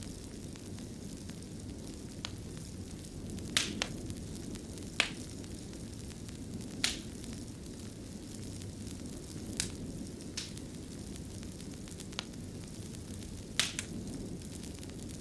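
Wood fire burning in a fireplace: a steady low rush of flames with sharp crackles and pops at irregular intervals, about every second or two.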